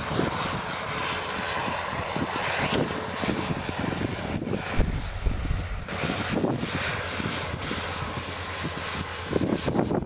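Aircraft engine noise from a passing airliner near the airport, a steady rushing sound, with wind buffeting the microphone.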